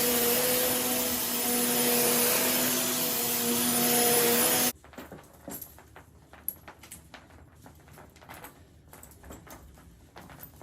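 Vacuum cleaner running with a steady motor hum, then stopping abruptly a little under five seconds in. Light clicks and taps follow in the quiet.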